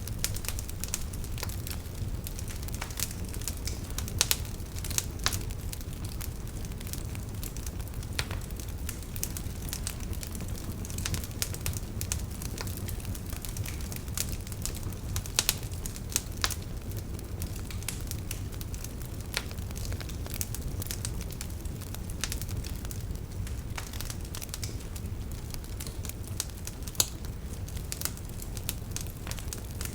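Wood fire burning in a fireplace: a low steady rumble of flames with many irregular crackles and pops from the burning logs.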